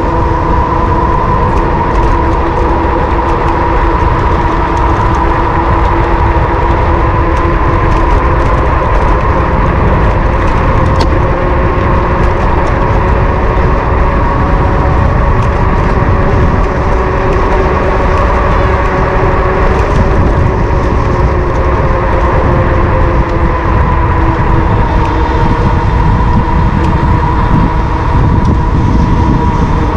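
Wind rushing and buffeting over an action camera's microphone on a moving electric bike, with a steady whine from the e-bike's motor that drifts slightly in pitch as the speed changes.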